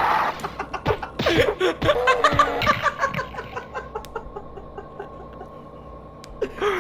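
People laughing, with short bursts of laughter that die down after about three seconds, over faint background music.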